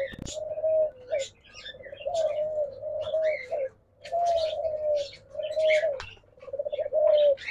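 Diamond doves cooing: a string of soft, pitched coos, each under a second long with short gaps between, overlaid by faint high chirps from small birds in the aviary.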